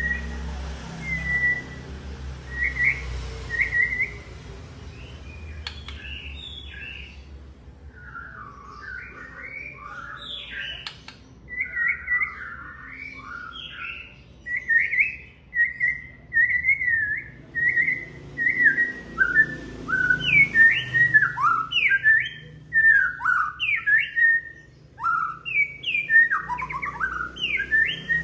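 White-rumped shama singing: a varied run of clear whistled notes that swoop up and down in quick phrases, sparse at first and busier in the second half.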